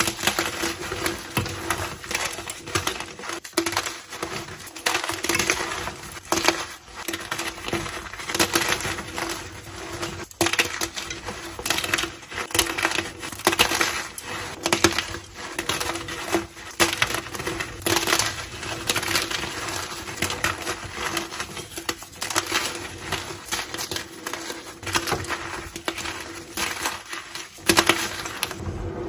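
Blocks of gym chalk being crushed and crumbled, a dense, continuous run of crisp crunches and crackles.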